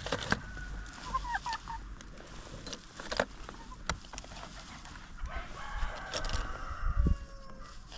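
Chickens clucking and calling, with one long call of about two seconds starting about five seconds in. A few sharp knocks are scattered through.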